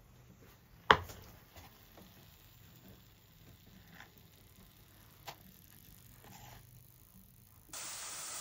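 A sharp knock about a second in and a few faint clicks, then near the end a steady sizzle sets in suddenly: thin plantain slices frying in hot oil.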